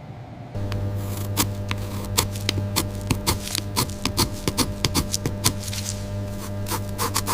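A small power tool's motor starts humming steadily about half a second in. Rapid, irregular clicking and scratching runs over it, as of a tool working on a hard surface during cleaning.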